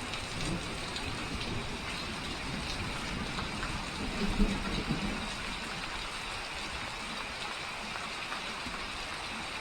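Steady rain falling, heard as an even hiss, with a brief louder low sound about four seconds in.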